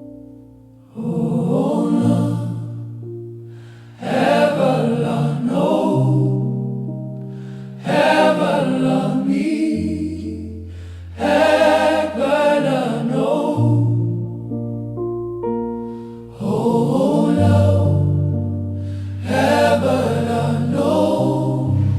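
Gospel choir singing in phrases of a few seconds each, over sustained keyboard chords and held bass notes that change with each phrase.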